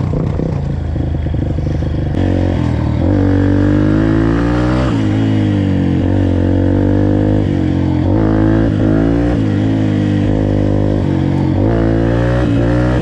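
Dirt bike engine, running rough and uneven for about the first two seconds, then revving up and down several times.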